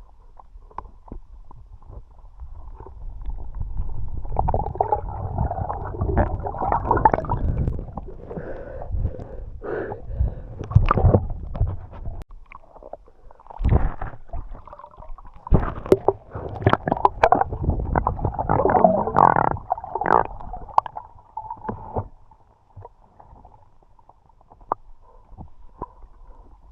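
Muffled underwater water movement picked up by an action camera in its housing: rushing and gurgling with scattered knocks. It swells in two long stretches and is quieter near the end.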